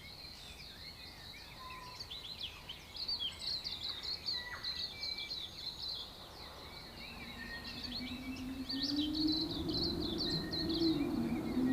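Dawn chorus of New Zealand native birds: a dense run of rapid chirps and whistles. About halfway through, a low engine drone comes in under the birds, rising slowly in pitch and growing louder, like a car approaching.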